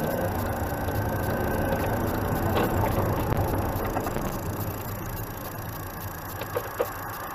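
Vehicle running on the road, a steady rumble of engine and tyre noise with a few light rattles and clicks, and no hard impact.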